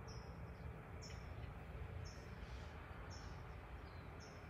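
A small bird giving a short, high, slightly falling chirp about once a second, five times, over a faint low rumble of outdoor background noise.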